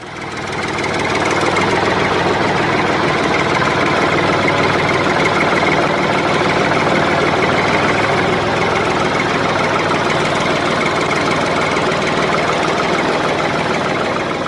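An engine running steadily, fading in over the first second and fading out near the end.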